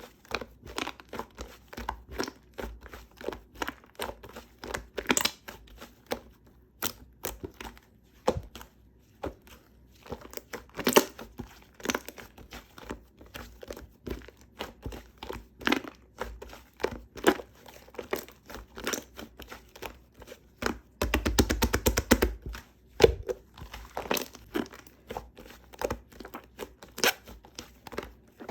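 Shaving foam being squished and worked by hand, giving irregular wet crackles and squelches, with a fast run of them about 21 seconds in.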